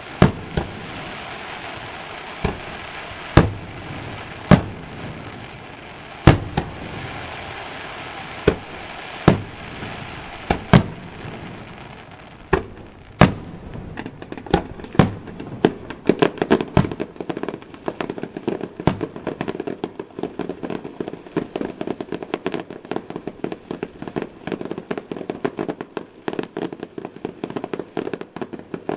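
Aerial fireworks going off: single sharp bangs about a second apart through the first half, then from about 17 seconds in a dense, fast crackle of many small reports.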